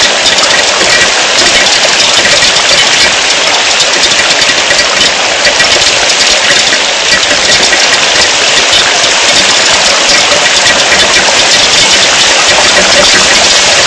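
Rain falling steadily, a loud even hiss with no breaks.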